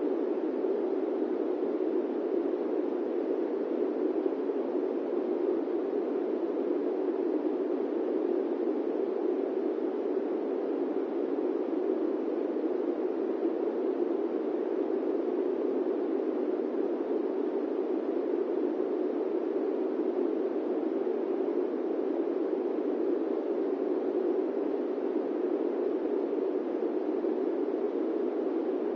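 Steady airplane-cabin white noise: an even, deep rushing hiss that never changes, with no tones or separate events.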